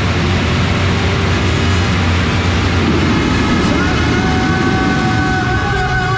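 A pack of motocross bikes running at high revs together, many engines overlapping, with some pitches rising in the second half.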